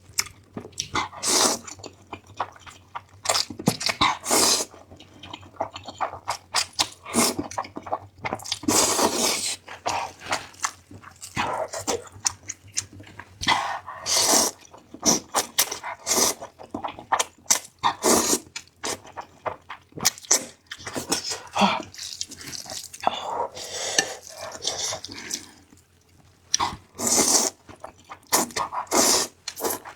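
Close-miked eating sounds: repeated slurps of noodles and soup with chewing in between, in short irregular bursts every second or two.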